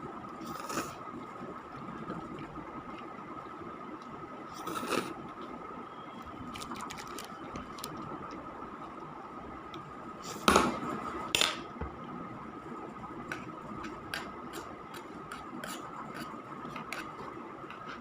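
Scattered light clicks and scrapes of a utensil against a container, with a few louder knocks about one, five and ten to eleven seconds in, over a steady faint high hum.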